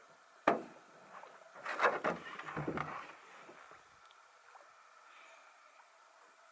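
Canoe being paddled: a sharp knock about half a second in, then about a second of paddle splashing and knocks, then only faint water.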